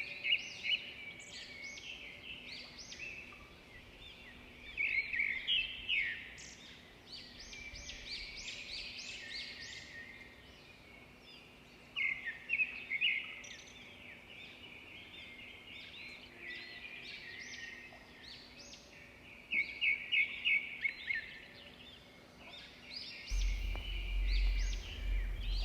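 Birds chirping and singing, with several runs of quick repeated notes. A low rumble comes in near the end.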